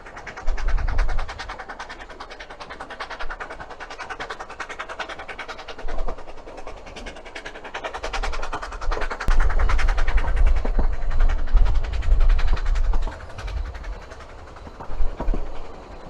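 Railway carriage running along the track, with a fast, steady rattle of wheels and fittings. Heavy rumbling gusts of wind buffet the microphone near the start and again for several seconds in the middle.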